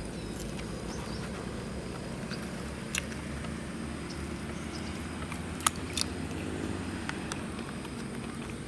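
Outdoor ambience: a low steady rumble with a few sharp clicks, one about three seconds in and two more close together around six seconds.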